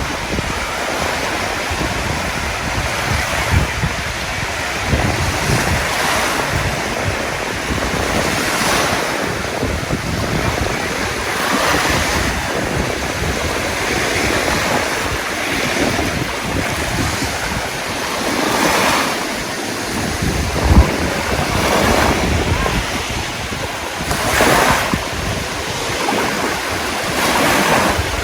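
Sea waves washing in, swelling and fading every few seconds, with wind buffeting the microphone. A short bump stands out about three quarters of the way through.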